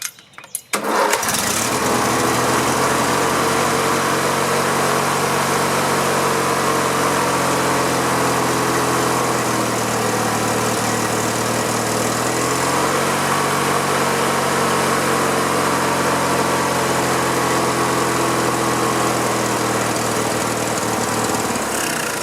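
Riding lawn mower's opposed twin-cylinder engine catching on starting fluid about a second in and running steadily, sounding decent, with a slight rise in pitch about halfway. It fades near the end as the engine dies, which the owner takes to mean it may not be getting fuel.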